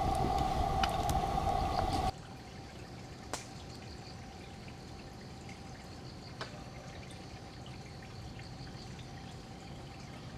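A loud steady rushing sound with a strong hum in it cuts off abruptly about two seconds in. It gives way to quieter wet ambience: steady water sound with a couple of single drops striking and a faint chirping insect.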